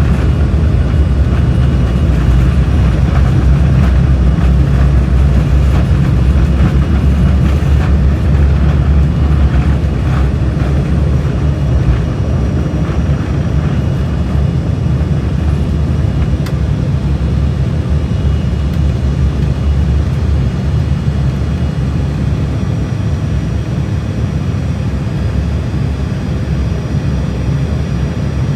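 Steady, loud rumble inside an aircraft cabin during takeoff: engine noise and runway rumble, easing a little about halfway through.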